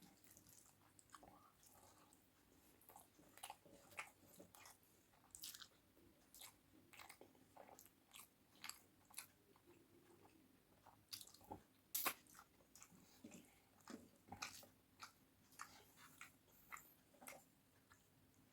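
A person chewing a meal of rice and curries close to the microphone: quiet, irregular mouth clicks several times a second, with one louder click about twelve seconds in.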